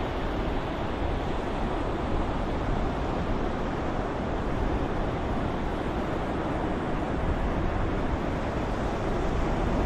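Ocean surf as a sleep soundscape: a continuous, steady wash of waves with no distinct breaks.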